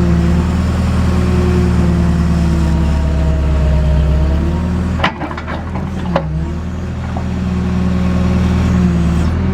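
JCB backhoe's diesel engine running steadily under hydraulic load while digging. About halfway through, the engine note dips and two sharp clunks come about a second apart, then the steady running picks back up.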